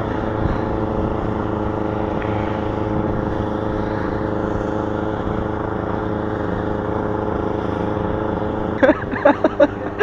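A motor vehicle engine running at a steady speed with an even hum. Loud sudden noises start near the end.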